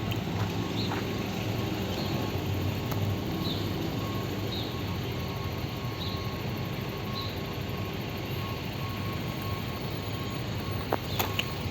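Road traffic at a city intersection: car engines running and tyres on asphalt as a steady rumble, with short high chirps every second or so through the first half.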